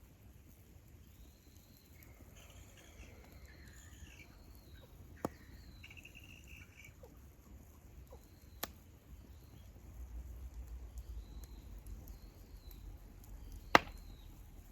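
Wood campfire burning with a few sharp pops, three in all, the loudest near the end. Small birds chirp in the background.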